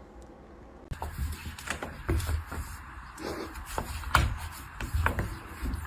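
Light rubbing and scraping with scattered faint clicks and a few soft low knocks.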